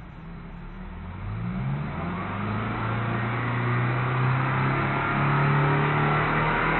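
W-type engine of a rare car breathing through an aftermarket SUXON muffler, accelerating: from about a second in the exhaust note rises in pitch and grows steadily louder.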